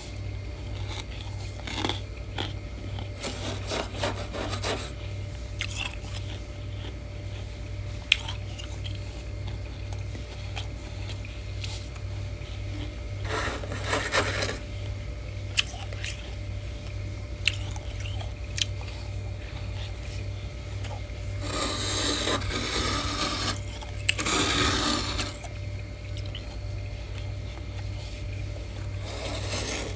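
Freezer frost being scraped and crunched in several short rasping bursts, each a second or two long, with a few sharp clicks in between. A steady low hum runs underneath.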